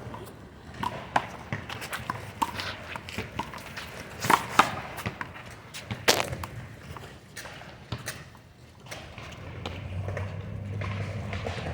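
A small rubber handball being played: irregular sharp smacks of the ball struck by hand, hitting the wall and bouncing on pavement, with footsteps. The loudest smacks come about four and six seconds in.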